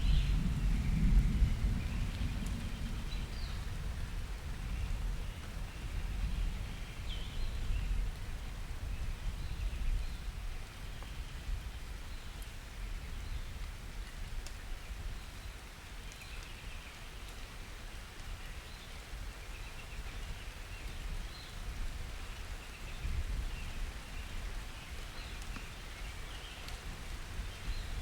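Summer thunderstorm: thunder rumbling low and loud at first, fading away over the first several seconds, with another softer roll late on, over steady rain. Faint short high chirps come through now and then.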